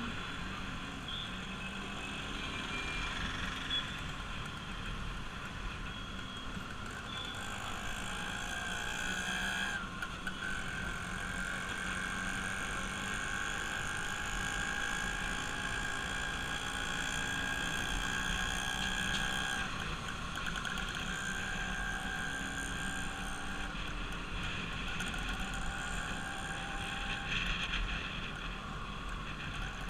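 Bajaj Pulsar RS200's single-cylinder engine running steadily under way, its pitch holding mostly even with small shifts.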